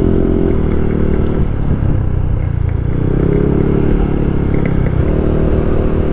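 Yamaha 155 cc scooter engine running steadily while riding. Its pitch slackens and wavers briefly about a second and a half in, then steadies again.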